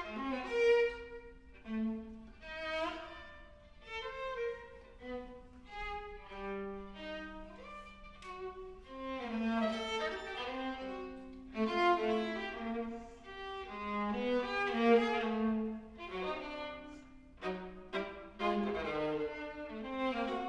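Viola and piano playing a live chamber-music piece: bowed viola notes held over struck piano notes and chords.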